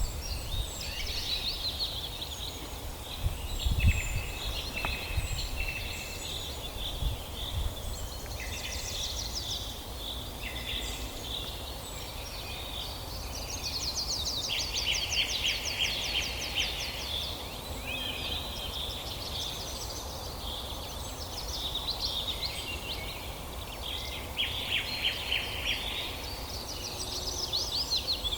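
Several songbirds singing at once in an early-morning chorus, with overlapping fast trills and repeated high notes. A low rumble runs underneath, swelling briefly about four seconds in.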